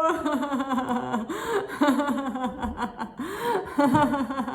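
A woman laughing on and on in deliberate laughter-yoga laughter: a long run of quick voiced pulses whose pitch rises and falls.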